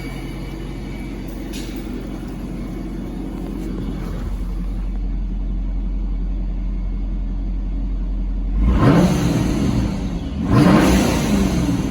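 ProCharger-supercharged 6.2-litre V8 from a fifth-generation Camaro idling steadily, then revved twice near the end, each blip rising and falling quickly in pitch.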